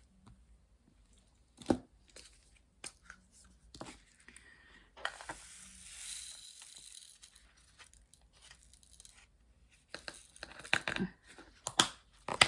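Crinkly plastic being handled and torn, with scattered small clicks and a longer rustling stretch about halfway through.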